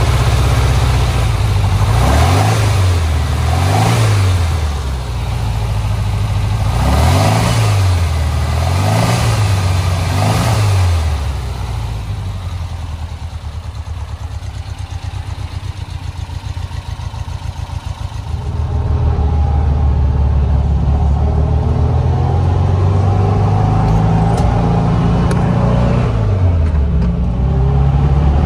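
1956 Porsche 356A Carrera's air-cooled flat-four engine being blipped several times in two groups of quick revs. It then settles to a lumpy idle, and about two-thirds of the way in it runs louder and steadier, with a few rises and falls in pitch near the end.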